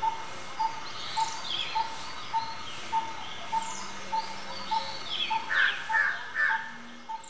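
Birds calling outdoors: one bird repeats a short note steadily, a little under twice a second, while others chirp and whistle over it, with a few louder calls near the end.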